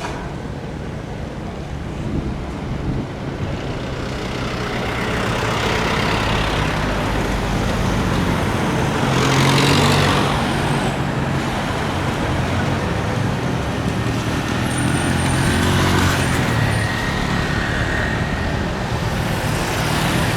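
A continuous roar of engines and traffic, growing louder after a few seconds and swelling and easing several times, with a steady low hum and a faint high whine.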